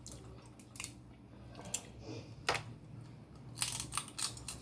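Snow crab leg shells being cracked and pulled apart: a series of sharp snaps and crunches, with a cluster of them near the end.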